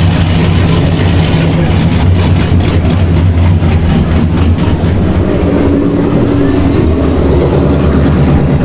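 Car engine idling loudly with a choppy, lopey exhaust note typical of an aggressive camshaft. A second, higher engine note comes in for a couple of seconds about halfway through.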